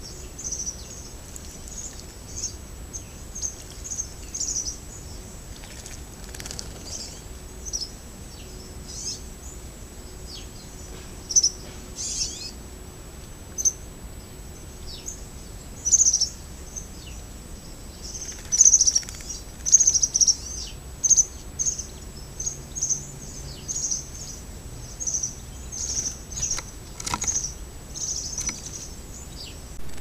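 Small birds calling: many short, high-pitched chirps repeated throughout, coming thickest and loudest in the second half.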